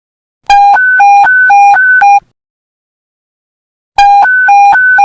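Police panic-button alert tone: beeps alternating between a low and a high pitch about four times a second, in a burst of under two seconds. After a pause the burst starts again near the end.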